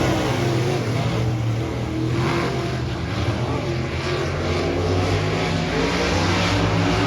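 Dirt-track modified race cars' engines running at speed around the track, several at once, their pitch rising and falling a little as they go.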